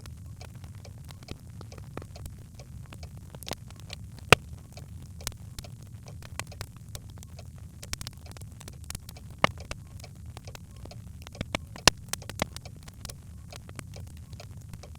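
Birchwood fire burning in a fireplace: a steady low rumble of flame with irregular sharp crackles and pops, the loudest pops about four seconds in and again near twelve seconds.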